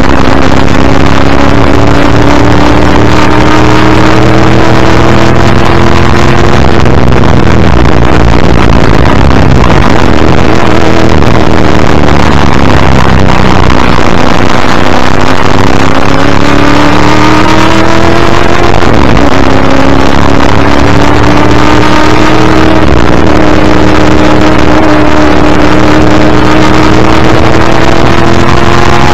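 1984 XD Group C Ford Falcon's V8 engine running hard under racing load. It climbs in pitch as it pulls through the revs, drops sharply twice as it backs off for corners, and climbs again each time.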